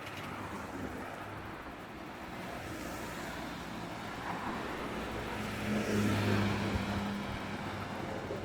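A car approaching and passing on the road: engine hum and tyre noise build steadily, are loudest about six seconds in, then begin to fade.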